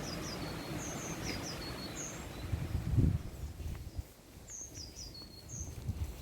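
A bird calling in two quick series of short, high, falling chirps, one early on and one in the second half. Low thumps of walking footsteps come about halfway through and again near the end, the loudest sounds here.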